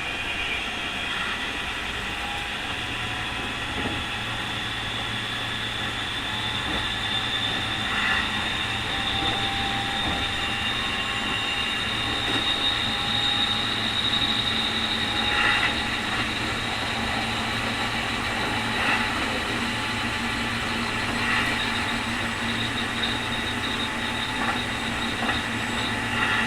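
Keikyu 2000 series electric train running, heard from inside the car, with a steady running noise. Over it is a high, steady jet-like whine, the strong 'jet sound' of this abnormally noisy car, which rises slightly in pitch about halfway through and then holds. A few short knocks from the wheels come every few seconds.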